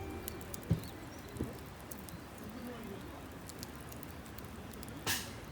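Wood campfire crackling, with scattered small pops, a couple of soft knocks early and a louder hissing pop about five seconds in.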